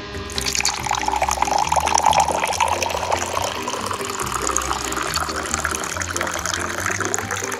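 Grape juice pouring in a steady stream into a small glass cup. The pouring starts a moment in and its pitch creeps a little higher as it goes on, over background music.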